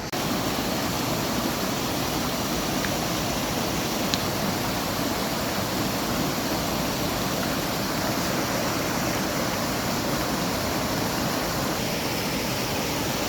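Steady rushing of flowing water, a stream or cascade running close by, even and unbroken throughout.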